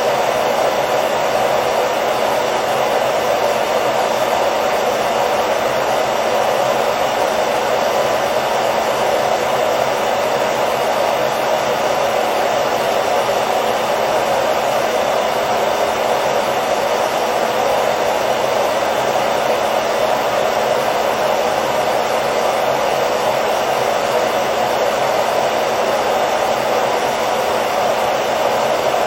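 Hair dryer running continuously at a steady speed, an even whooshing rush of blown air over a motor hum, with no change in pitch or level.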